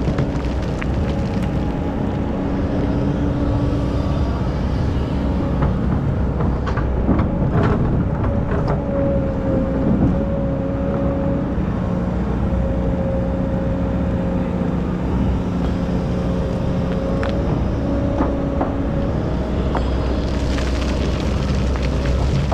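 An excavator's diesel engine running steadily, with a few sharp knocks as it digs sand and a spell of hiss near the end.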